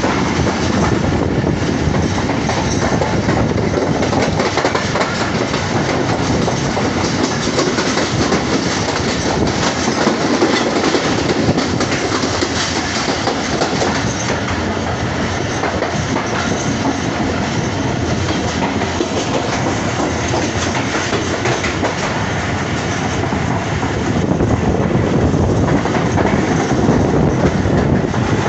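Passenger coach running at speed, heard from its open side: a steady loud rush of wheel and rail noise with the clickety-clack of wheels over rail joints. It grows a little louder near the end.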